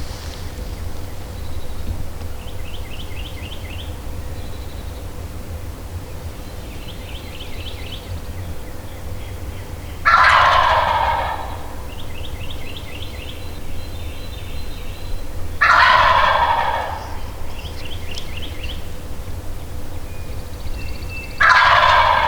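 A wild turkey gobbler gobbling three times, about six seconds apart, each gobble a loud rattling call lasting about a second. Faint, fast songbird trills repeat between the gobbles.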